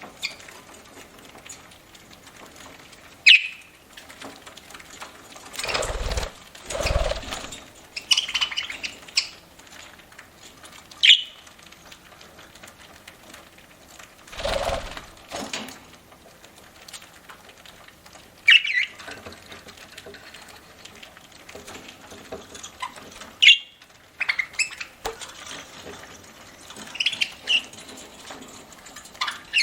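Pet budgerigars (parakeets) eating, with small clicks of nibbling and cracking seed. Short sharp chirps come every few seconds, and a few louder fluttering rustles break in, about six seconds in and again near the middle.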